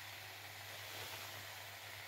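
Whole button mushrooms sizzling steadily in a frying pan as the juices they have released cook off, with a low steady hum underneath.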